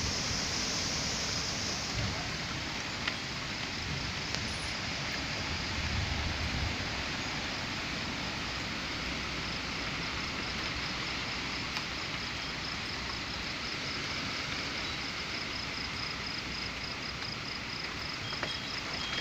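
Steady rain falling during a thunderstorm, with low rumbles of thunder in the first couple of seconds and again about six seconds in.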